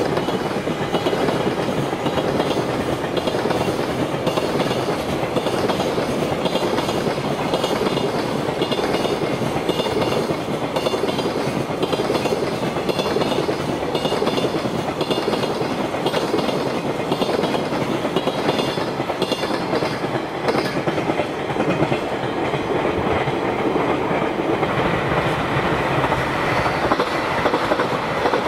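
Container freight wagons rolling past, their wheels clattering over the rail joints in a steady rhythm. From about 24 seconds in, a second train, a passenger train, starts going by on the nearer track and changes the sound.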